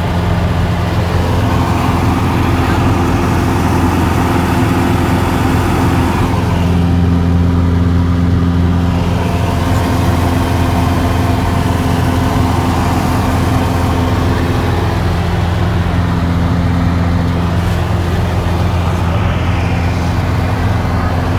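Cessna 172's piston engine and propeller running steadily in flight, a loud, even hum with no breaks.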